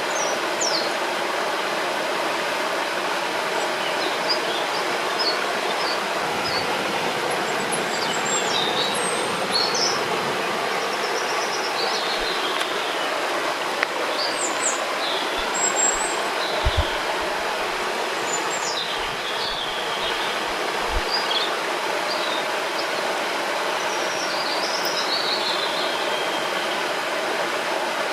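Steady rush of flowing river water, with scattered short bird chirps and calls throughout. A few soft low thumps come in the middle.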